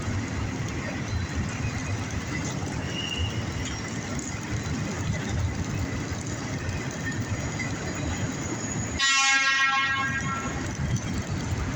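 An empty autorack freight train rolls past with a steady rumble of wheels on rail. About nine seconds in, a loud horn sounds for about a second.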